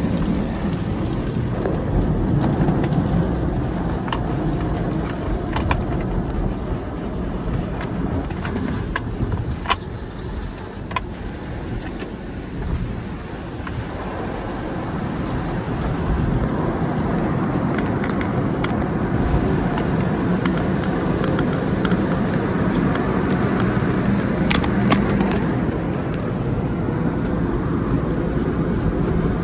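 Steady low rumble of a car, with a few scattered sharp clicks and knocks. It dips briefly partway through, then runs steady again.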